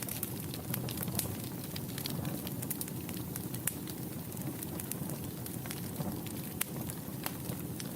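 Wood fire crackling in a fireplace: irregular sharp pops and snaps, several a second, over a steady low rumble of the burning flames.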